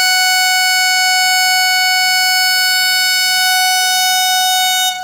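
Vande Bharat Express train horn giving one long, steady blast on a single note, stopping near the end.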